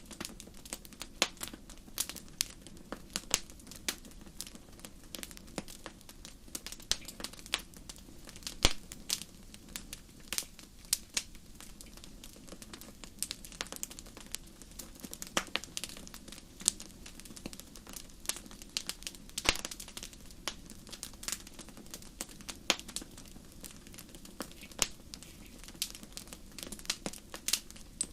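Wood fire crackling in a fireplace: irregular sharp pops and snaps, several a second, over a soft steady low rush of the flames.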